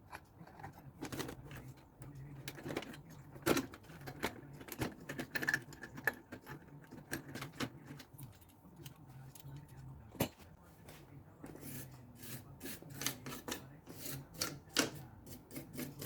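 Irregular small clicks and taps of tools being handled at a workbench, coming faster near the end, over a faint low steady hum.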